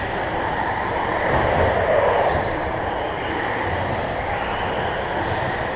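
1/10-scale RC stadium trucks racing on an indoor carpet track: a steady, dense mix of motor whine and tyre noise with faint shifting pitches as the trucks speed up and slow down.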